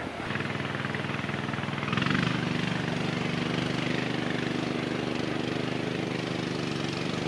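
An engine running steadily with an even hum, getting louder about two seconds in, with a hiss over it.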